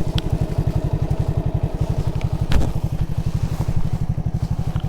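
Alpha moped's single-cylinder four-stroke engine idling with a steady, even putter. A single knock about two and a half seconds in.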